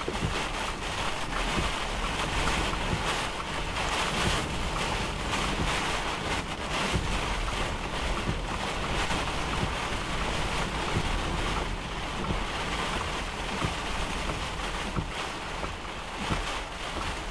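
Storm wind and rain heard from inside a stopped vehicle: a steady rushing noise with many small ticks over it.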